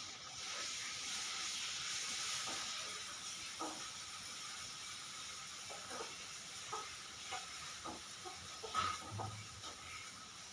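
A steady hiss that comes in suddenly at the start, with short faint sounds scattered over it.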